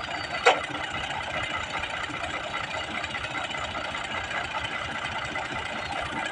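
Al-Ghazi tractor's diesel engine running steadily, with one sharp click about half a second in.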